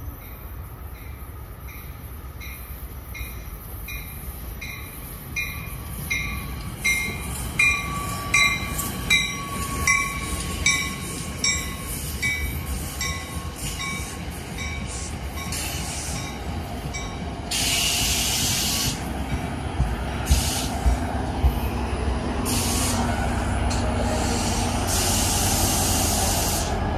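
NJ Transit commuter train passing close by at speed. Its wheels click rhythmically over the rail joints, about one click every two-thirds of a second, over the rumble of the coaches. Near the end a deeper steady drone comes in as the locomotive at the rear goes by.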